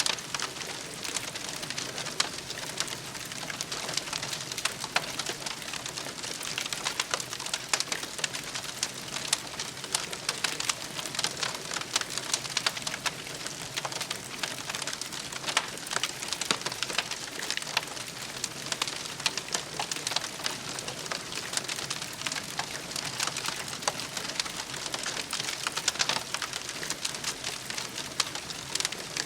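Wood campfire crackling steadily, with a constant hiss and many small, sharp pops and snaps.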